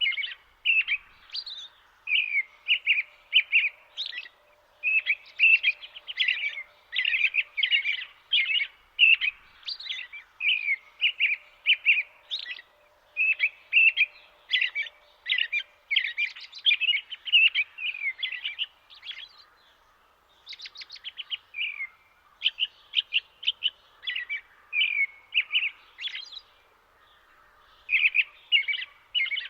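Small birds chirping: quick runs of short, high calls repeated several times a second, broken by brief pauses.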